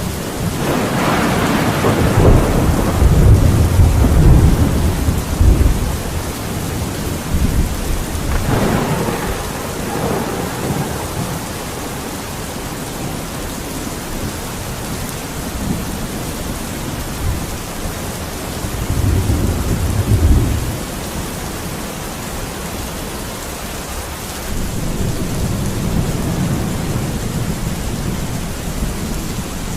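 Steady rain with rolls of thunder: a long rumble over the first several seconds, a sharper crack and rumble about nine seconds in, and shorter rumbles around twenty and twenty-six seconds.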